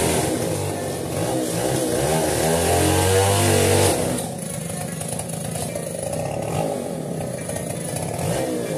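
Chainsaw engine running and revving, its pitch rising and falling, then dropping to a quieter, lower run about four seconds in.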